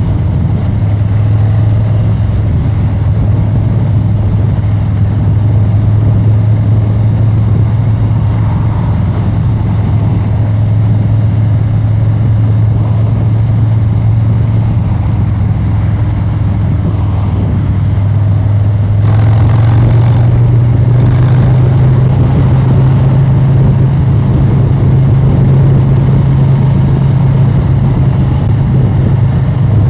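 Harley-Davidson Street Bob 114's Milwaukee-Eight 114 V-twin running through an aftermarket SP Concepts exhaust, cruising at steady revs. About two-thirds of the way in, the engine note steps up a little and gets slightly louder.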